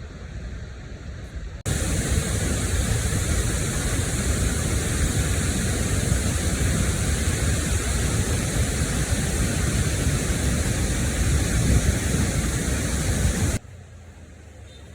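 Ban Gioc waterfall's falling water, a loud, steady rushing noise that cuts in suddenly about two seconds in and cuts off just as suddenly near the end.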